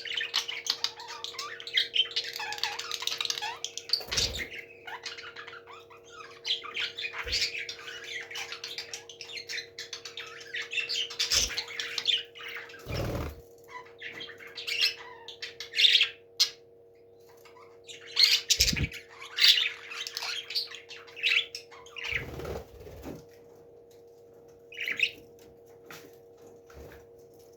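Parrot squawking and chattering in repeated harsh calls, dense at first and sparser toward the end, over a steady low hum, with a few dull thumps.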